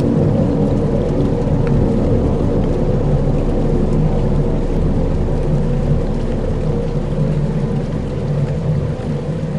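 Dark ambient soundscape: a steady, low rumbling drone of layered held tones over a rain-like hiss, with a few faint ticks.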